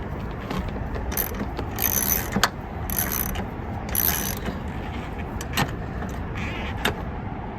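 Hand tools working on bolts under a car's hood: three short ratcheting bursts about a second apart, then a few sharp metal clicks.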